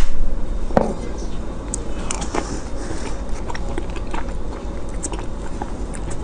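Biting into a frozen ice cream dessert and chewing it, with one sharp crack about a second in and then a run of small crisp crackles.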